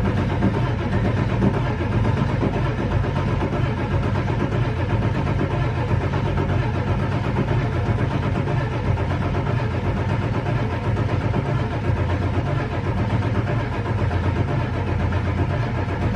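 Starter cranking the 7.3L Powerstroke V8 turbo diesel of a 1999 Ford F350, steady and continuous without the engine firing. It is a hard start with the oil pressure gauge reading zero while cranking, which the owner puts down to the low-pressure oiling system.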